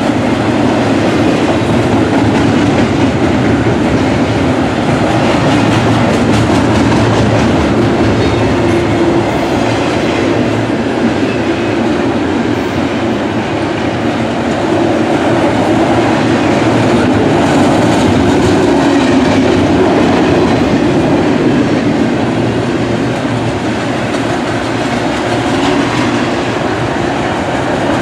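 Double-stack container freight train rolling past at close range: a steady, loud rumble of its cars' steel wheels on the rails.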